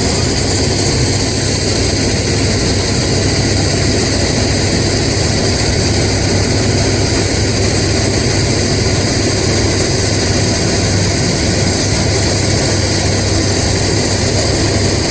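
LORAM SBC-20 shoulder ballast cleaner's heavy diesel machinery running steadily and loudly, with a low drone and a constant high whine.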